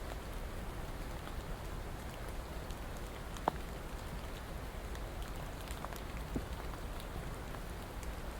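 Steady rain, an even hiss with single drops ticking now and then; one drop about three and a half seconds in is louder than the rest.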